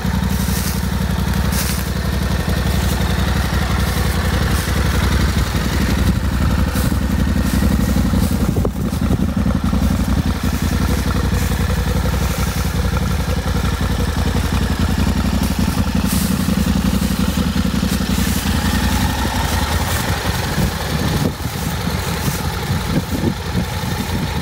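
2022 Yamaha Ténéré 700 World Raid's 689 cc parallel-twin engine idling steadily.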